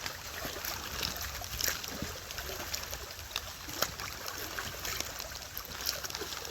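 Rain-swollen creek running steadily, with scattered sharp ticks of rain striking an umbrella.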